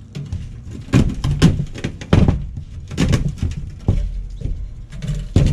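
Handling the rusted metal hood of a fire pit and its old mesh grate: a series of separate knocks and clanks, roughly one every second.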